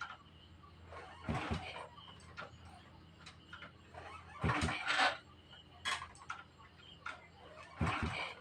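Honda motorcycle being kick-started three times, about three seconds apart, each kick turning the engine over briefly without it catching: the bike won't start.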